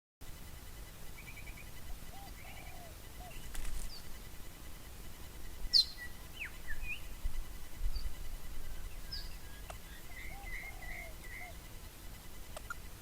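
Birds chirping and calling in short scattered phrases, some high and trilled, a few lower and warbled, with one sharp, louder call about six seconds in.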